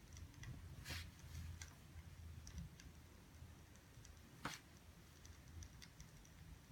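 Faint, irregular small clicks and ticks over a low hum, with two sharper clicks, one about a second in and one about four and a half seconds in.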